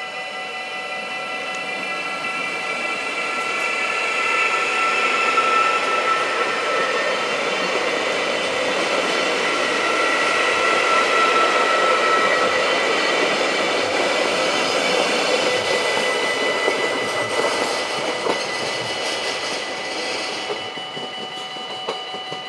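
Arriva Stadler GTW multiple unit running close past along the platform: the running noise and the wheels on the rails build over the first few seconds, with a whining tone from the drive. It holds loud until it drops away shortly before the end. Steady high ringing tones sound under it throughout.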